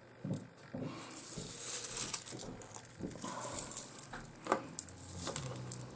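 Rustling of a plastic packet with small pieces of rough opal clicking against each other as they are handled.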